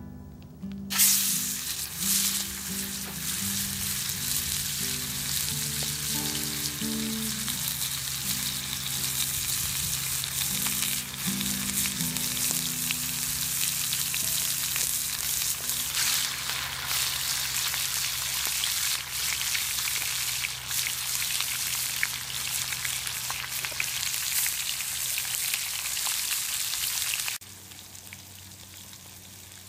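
Catfish fillet sizzling as it fries in hot oil in a skillet over a campfire. The sizzle jumps in suddenly about a second in, as the fish goes into the oil, and cuts off abruptly near the end.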